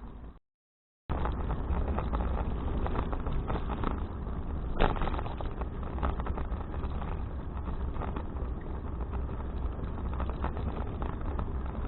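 Wind rumbling on an action camera's microphone while riding a bicycle, with road noise and small rattling clicks and one sharper click about five seconds in. The sound drops out completely for under a second near the start.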